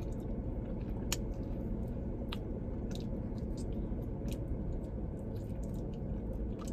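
Close-up chewing and biting on a bone-in chicken wing flat, with scattered wet mouth clicks, over a steady low background hum.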